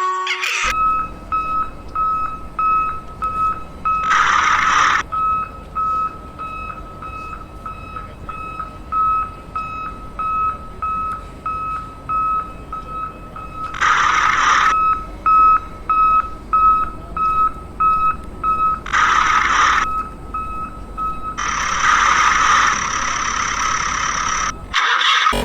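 Vehicle reversing alarm beeping steadily at one pitch, about two beeps a second, broken three times by short rushing noises. Near the end the beeping stops and a longer rushing sound takes over.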